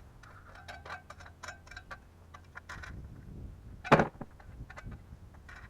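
Stones being carried and handled, knocking together with small clicks and clacks, and one loud sharp knock about four seconds in as a stone is dropped or struck.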